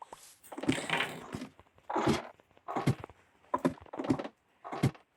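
A series of about six separate thuds and knocks, each sudden and brief.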